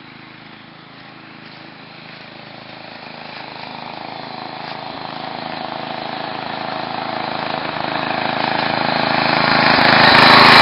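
Racing tractor's small engine running steadily, getting gradually louder as it comes closer, loudest near the end.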